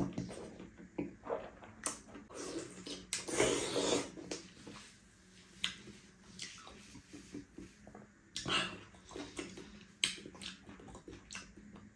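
Close-up chewing and mouth noises of a person eating, irregular wet clicks and smacks, with a longer breathy burst about three seconds in. A faint steady hum runs underneath.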